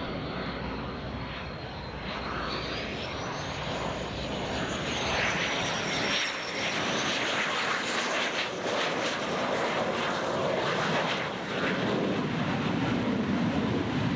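Military aircraft flying by: steady engine noise with a high-pitched whine that rises in pitch a few seconds in and then settles, getting somewhat louder in the second half.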